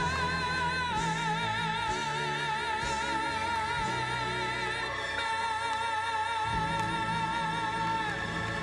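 The closing notes of a gospel song: a singer holds long notes with a wide vibrato over instrumental accompaniment. The held note steps down about a second in, rises again about five seconds in, and ends shortly before applause begins.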